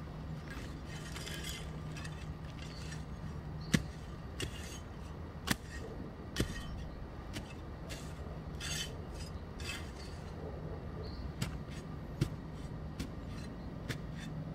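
Scattered sharp knocks and clicks, with a few short scraping sounds, over a steady low hum.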